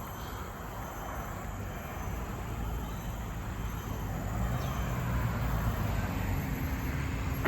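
A motor vehicle approaching on a nearby road, its engine and tyre noise growing steadily louder, with a steady low engine hum coming in near the end.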